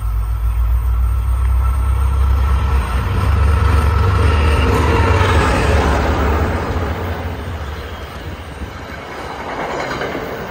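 NJ Transit diesel locomotive and its passenger coaches passing close by. A heavy low engine drone is loudest in the first several seconds, and the rolling noise of the train swells to a peak about halfway through, then eases off as the coaches go by.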